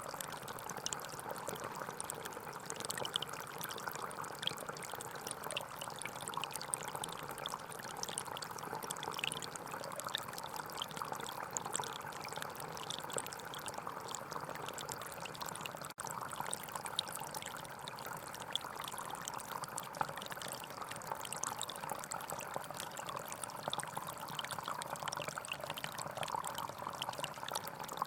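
Gentle forest stream flowing and trickling steadily, with a brief momentary dropout about halfway through.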